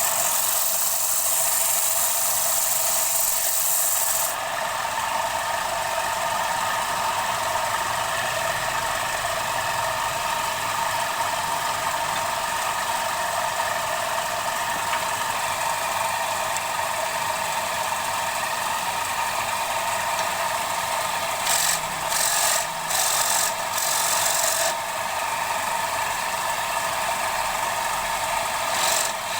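Wood lathe running while a tool rubs against the spinning wooden bowl, giving a steady scraping hiss over the machine's hum. The sharp high scrape eases about four seconds in and comes back in several short bursts near the end.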